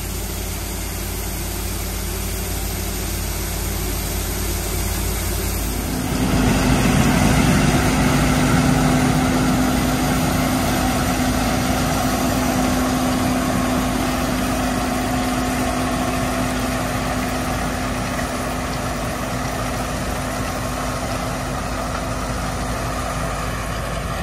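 Diesel engine of a Peterbilt 378 grain truck running steadily. About six seconds in a louder, steady hum joins it and holds.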